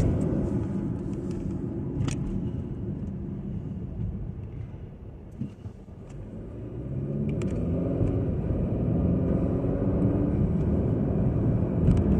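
Car driving with engine and road rumble; the sound eases off to a low about five seconds in, then the engine rises in pitch as the car speeds up again.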